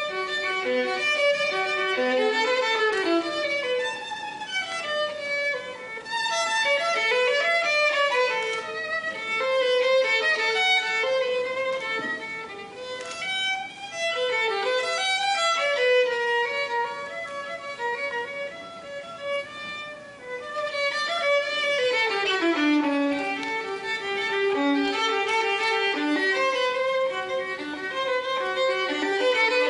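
Solo violin music: quick melodic runs of notes rising and falling, with a few slower held notes.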